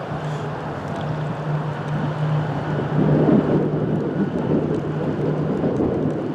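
GE 80-ton center-cab diesel switcher locomotive idling with a steady low hum, under wind buffeting the microphone in blowing rain. The wind noise swells about three seconds in.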